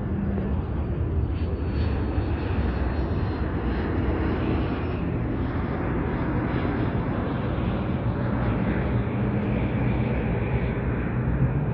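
Light airplane's engine running steadily, an even drone with a low hum underneath.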